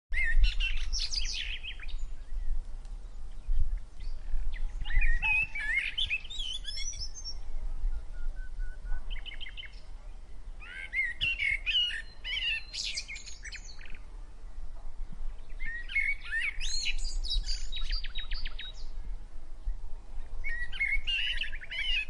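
Birds chirping and singing in phrases of quick trills and whistles, each a second or two long with short pauses between, over a steady low rumble.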